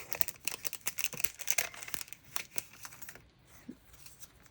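A sticker pack's packaging crinkling and crackling as it is handled and pulled open, a dense run of crackles for about three seconds that then thins out.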